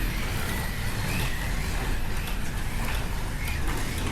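Slot cars running round the track during a race, their small electric motors whining over the steady running noise of the cars on the track, the whine rising and falling as they speed up and slow down.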